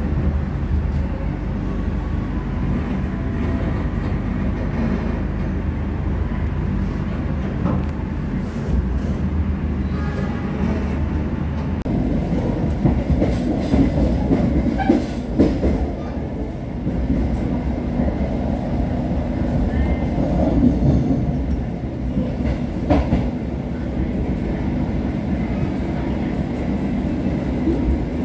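Passenger train running along the track, heard from on board: a steady rumble of wheels on rails with irregular clattering knocks, louder between about 12 and 23 seconds in.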